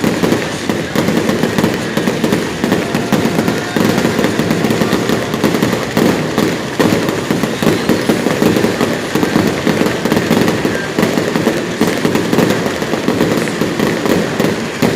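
Fireworks going off in a loud, dense barrage of bangs and crackles, many a second, without a pause.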